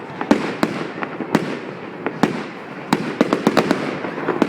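Fireworks going off: irregular sharp bangs from bursting shells over a constant crackling hiss, with a quick run of several bangs about three seconds in.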